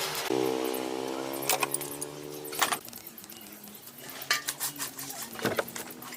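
A steady mechanical hum for about two and a half seconds, which then drops away to a fainter hum. Sharp metallic clicks and clinks sound through it.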